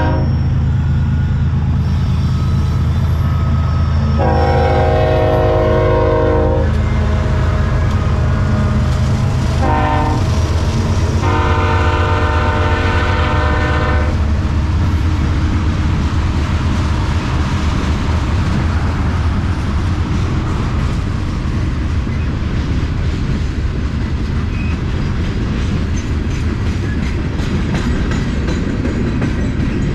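BNSF diesel freight locomotives sounding the horn in the grade-crossing pattern: the tail of one long blast, then a long, a short and a final long blast about 11 to 14 seconds in, over the steady low rumble of the engines. After the horn, the train rolls past with a continuous clatter of wheels on the rails.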